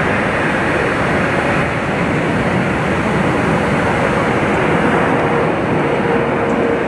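Steady jet noise from an American Bombardier CRJ regional jet's twin rear-mounted turbofans on its departure, with a faint steady whine coming in about halfway through.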